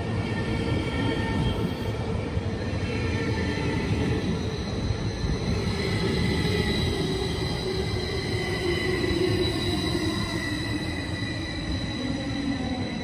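SBB double-deck electric train running slowly into a station platform under heavy rumble. Its motor whine falls slowly in pitch as it brakes, and a high steady squeal builds up about halfway through.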